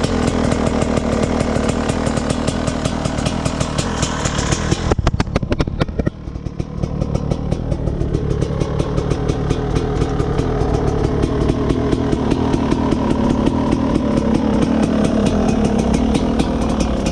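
Rieju MR 300 single-cylinder two-stroke enduro engine idling on choke while it warms up, a fast, even run of firing pulses. About six seconds in it briefly drops lower and quieter, then picks back up and settles.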